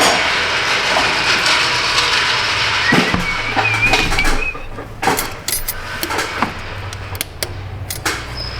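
Ratchet wrench clicking as it works bolts loose, a dense rasping for the first few seconds, then a run of separate metallic clicks and clinks of tools and parts.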